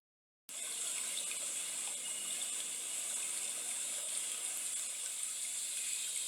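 Steady hiss of rushing water, starting abruptly about half a second in.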